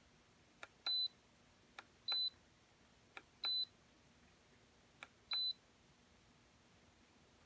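Four button presses on the control base of a Brightown electric kettle. Each is a sharp click followed a moment later by a short, high beep, spaced about a second and a half apart, as the temperature presets are stepped through.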